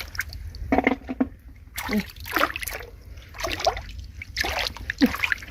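Ditch water splashing and sloshing in short, irregular bursts about once or twice a second, as it is stirred while searching in the mud.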